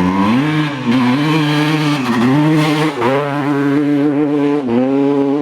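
Honda CR125 two-stroke single-cylinder motocross engine being revved and held up, its pitch dropping briefly and climbing back about four times.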